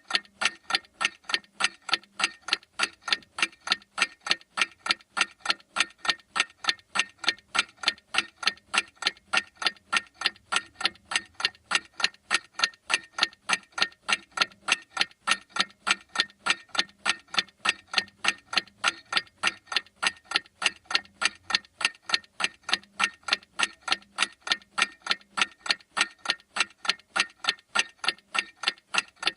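A clock ticking steadily, with evenly spaced sharp ticks at about three a second.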